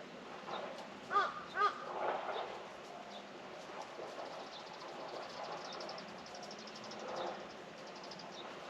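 A crow cawing twice in quick succession, two short hoarse calls about half a second apart, over a quiet rural background with faint small-bird chirps.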